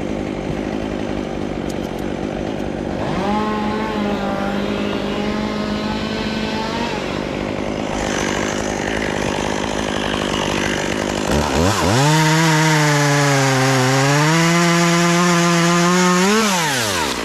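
Two-stroke chainsaw running over a steady low engine hum. A few seconds in, a high engine note holds for about four seconds. About two-thirds of the way through, the saw revs up to full throttle and cuts for about five seconds, its pitch sagging and recovering under load, then drops back to idle just before the end.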